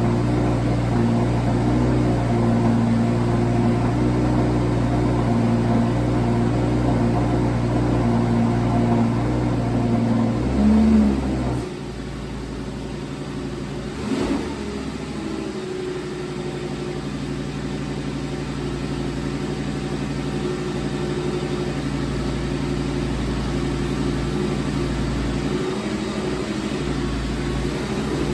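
Lamborghini Gallardo V10 engine running at a fast cold-start idle. About eleven seconds in it rises briefly, then drops suddenly to a lower, quieter idle; a short knock follows a few seconds later, and the idle slowly grows louder again.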